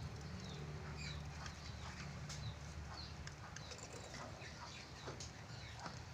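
Budgerigars chirping and chattering in quick, short notes, some gliding downward, over a steady low hum.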